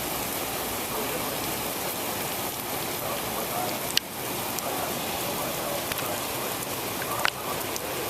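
Storm rain falling steadily, with a few sharp taps: one about four seconds in and two near the end.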